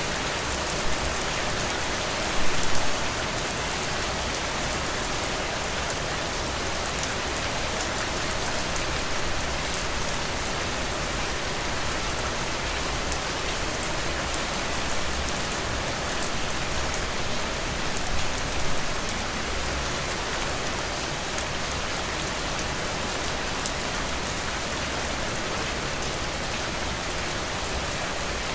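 Heavy rain falling steadily, a dense even hiss with individual drops pattering on a surface, swelling briefly louder a few times.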